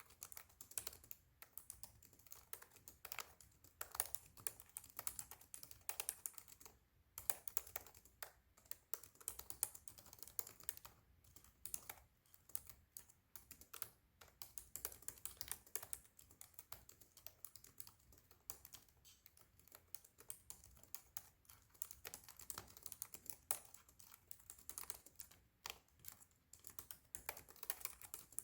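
Fast, continuous typing on a Razer laptop keyboard: a dense, irregular patter of light key clicks during a speed test, with a brief pause about seven seconds in.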